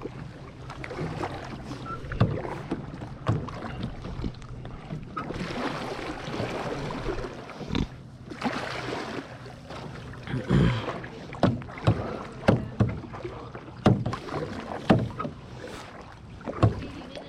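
Kayak paddling: paddle blades dipping and swishing through the water in repeated strokes, with short sharp splashes or knocks, coming about once a second in the second half.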